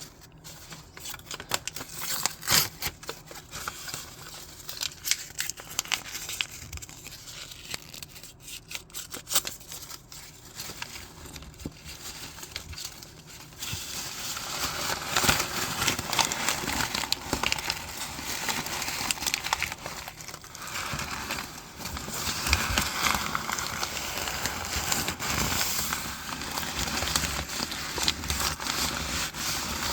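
Paper being torn and crumpled by hand: scattered rips and crackles at first, then denser, louder tearing and rustling from about halfway through.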